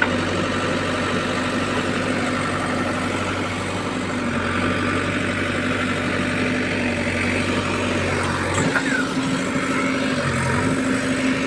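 JCB 3DX backhoe loader's diesel engine running steadily at idle. About three-quarters of the way through, a short knock is heard and the engine note shifts slightly.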